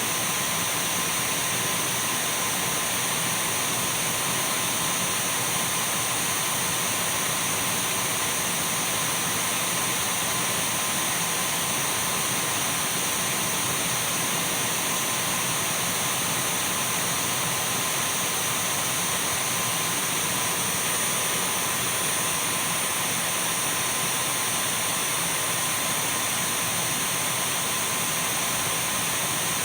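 Dyson V12 cordless stick vacuum running steadily: a continuous rush of air with a thin, constant high whine from the motor.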